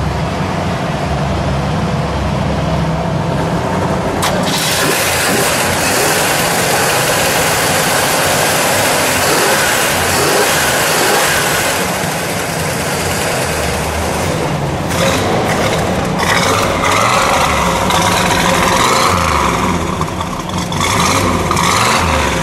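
1966 Pontiac GTO's Ram Air 389 V8 starting up about four seconds in, then running loudly and steadily, with changes in its note in the second half.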